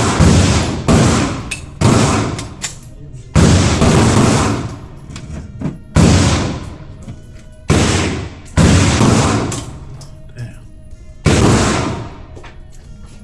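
Pistol shots fired one at a time at an uneven pace, about eight in all, each trailing off in a long echo.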